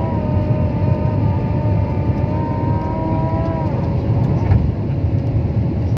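Airbus A320-232's IAE V2500 jet engines at takeoff power: a loud, steady deep rumble with a whine over it that holds steady, then dies away about three and a half seconds in.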